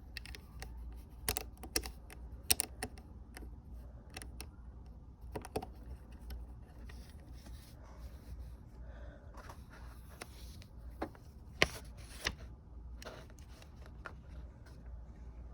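Lego bricks being handled and pressed together: scattered plastic clicks and light rattling, with a few sharper snaps, over a low steady hum.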